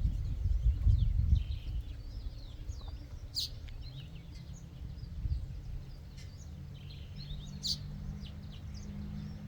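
Small garden birds chirping and calling, many short high chirps scattered throughout, over a low rumble in the first second or so and a low steady hum from about four seconds in.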